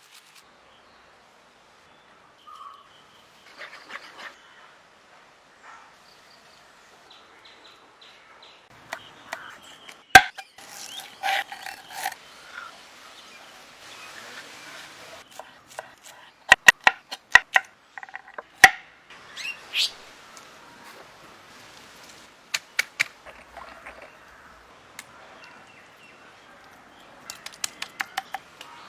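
Scattered sharp clicks and knocks, several in quick runs of a few a second, over faint birdsong.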